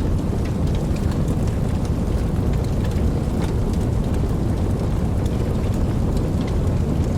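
Steady rain: a dense, even rush that is heaviest in the low range, with individual drops ticking here and there over it.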